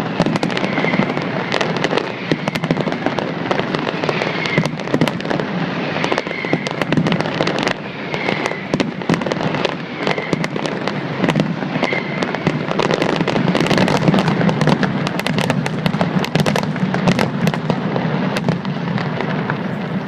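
Aerial fireworks going off: a continuous rumble of bursts with many sharp bangs and crackles, growing much denser over the last several seconds.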